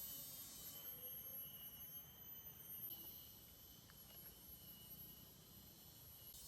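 Near silence, with faint steady high-pitched chirring of forest insects and a faint hiss that fades out about three seconds in.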